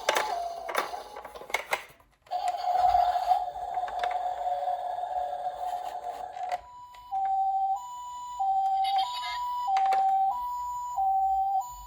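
Toy ambulance's electronic siren sound: a two-tone high-low call like a Japanese ambulance's, switching pitch about every 0.6 s from about halfway in. Before that come clicks and knocks, then a steady electronic tone with a hiss.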